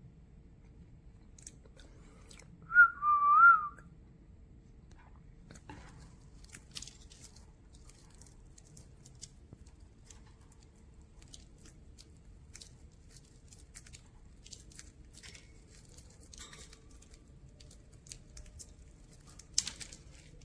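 A short warbling whistle about three seconds in, then scattered faint clicks and crunches of budgies pecking and husking spray millet seeds.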